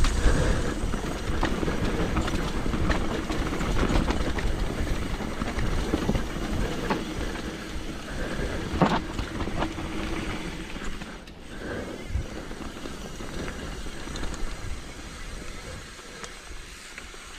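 Mountain bike riding downhill on a wet dirt trail: tyres rolling on dirt, the chain and frame rattling with sharp knocks over bumps, and wind rumbling on the microphone. The noise eases off toward the end.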